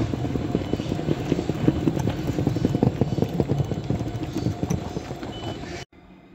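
An ICE electric train running out of the station: a low rumble with rapid, irregular clacking of wheels over rail joints and points, fading as it draws away. The sound cuts off abruptly near the end.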